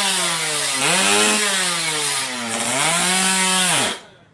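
Drag-racing motorcycle engine revved up and down over and over, its pitch rising and falling in repeated swells, then shut off abruptly near the end.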